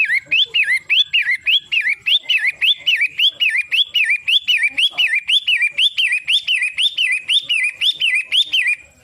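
Shrike calling a fast, steady series of repeated whistled notes, each sweeping up and then dropping, a little over two a second, stopping near the end.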